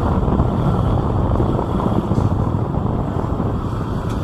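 Steady rumble of a moving motorbike ride: wind buffeting the microphone over the engine and road noise.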